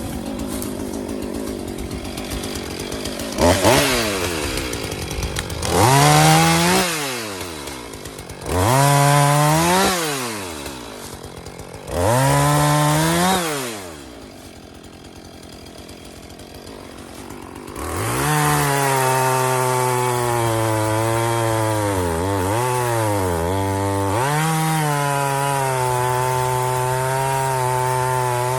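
Chainsaw engine idling, then revved up and back down four times in quick succession. After a quieter spell it is held at high speed for the last ten seconds, its pitch dipping briefly twice as it bogs, as the chain bites into a downed tree.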